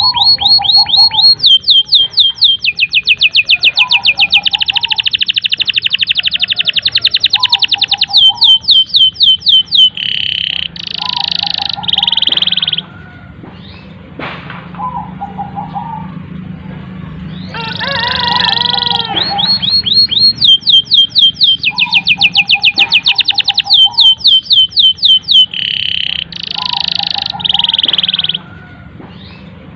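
Domestic canary singing a long, loud song of fast, high-pitched trills and rolls in phrases with short breaks, the same run of phrases coming round again about halfway through. A softer, lower call repeats every couple of seconds under it.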